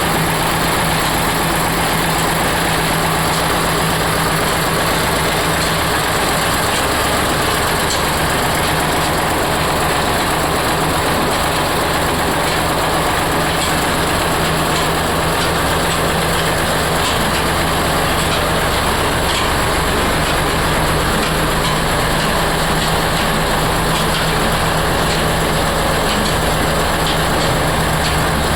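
Oil expeller running: steady, loud machine noise with a constant low hum and no let-up.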